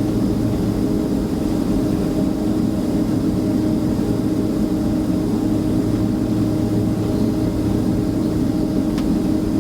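Steady cabin noise inside a Boeing 767-300ER with its engines running, a constant low hum and rumble that neither rises nor falls. A single faint click comes near the end.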